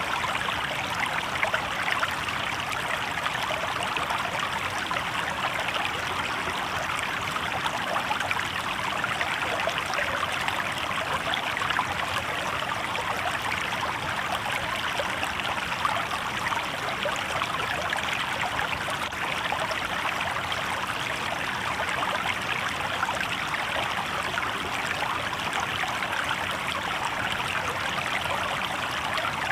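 Shallow river water babbling steadily over rocks, an even rushing splash with no breaks.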